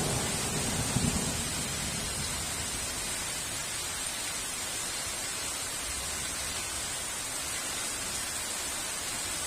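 Steady hiss of heavy rain, with the tail of a thunder rumble dying away in the first second or two.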